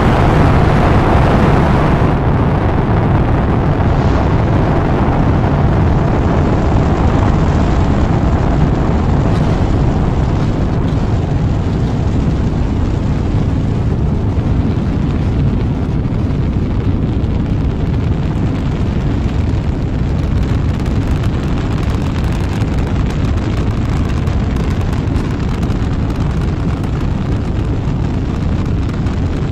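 Rocket engines at launch: a loud, deep rumbling noise that starts suddenly, brightest for the first couple of seconds, then holds steady and fades only slightly.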